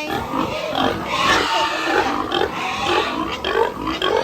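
Several pigs calling at once, a continuous overlapping chorus of grunts and cries.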